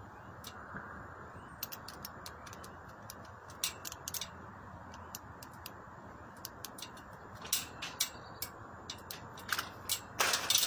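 Scattered sharp clicks and small rattles over a steady hiss, coming faster and louder near the end.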